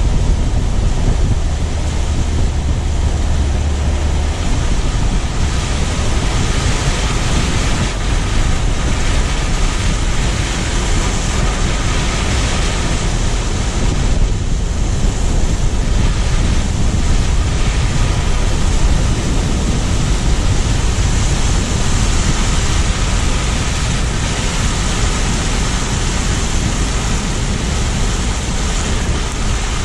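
Steady rush of car driving noise: tyre and road noise mixed with wind buffeting the microphone.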